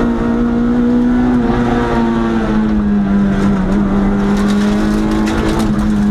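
Historic competition car's engine heard from inside the cabin, pulling hard uphill at high, fairly steady revs with brief small dips. A rapid patter of sharp ticks joins it about four seconds in.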